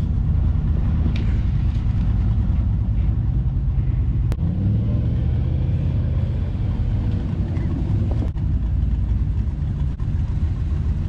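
Jeep engine running steadily at low revs, with two short sharp knocks about four and eight seconds in.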